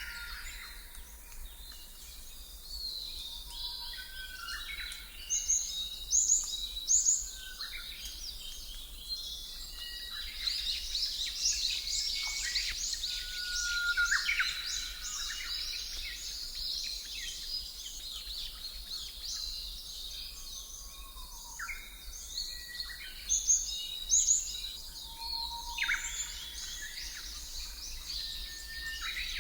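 Birdsong ambience: several birds chirping and whistling in many short calls, busiest in the middle and again near the end, over a steady background hiss.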